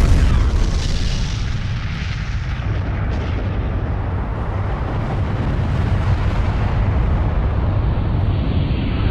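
A loud, continuous rumbling roar of a huge fire breaking out, with a heavy low end. It keeps going steadily without dying away.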